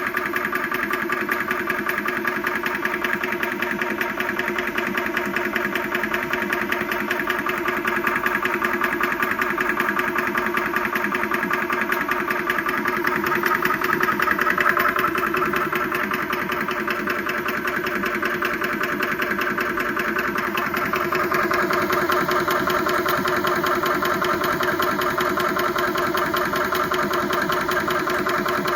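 Yong Heng 4500 psi high-pressure air compressor running steadily, pumping air into a bottle under pressure while it warms up. Its tone brightens a little about two-thirds of the way through.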